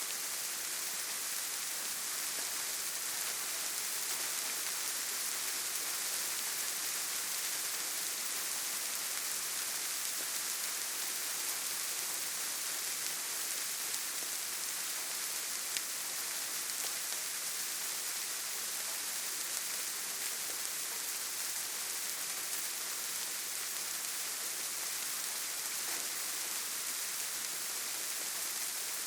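Steady rain falling, an even hiss with most of its energy in the high end and no change in intensity. One brief tick stands out about halfway through.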